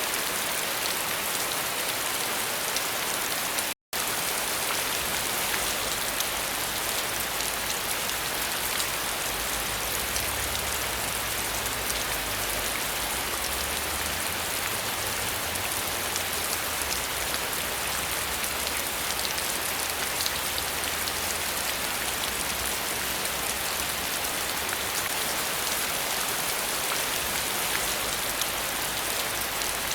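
Steady rain: an even hiss with a dense patter of individual drops. The sound cuts out completely for a split second about four seconds in.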